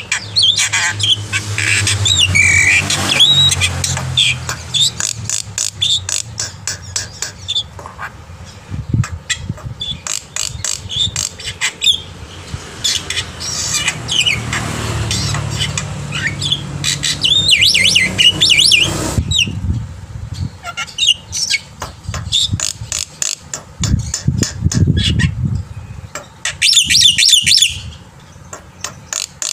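Black-winged starling (jalak putih) singing loudly and busily: a long run of harsh squawks, rapid clicks and short whistles, with a few brief pauses.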